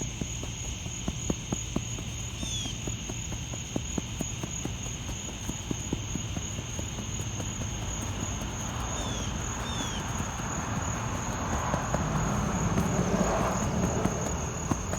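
Insects trilling steadily at a high pitch, with a few short falling bird chirps. Light clicks come through in the first several seconds, then from about nine seconds in a louder rough rushing noise as the oil stain on the concrete is worked on again.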